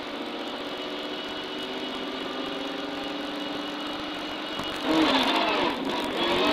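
Rally car's engine running at steady revs while the car waits at the start of a special stage, then about five seconds in the revs rise sharply and the note climbs as the car launches off the line.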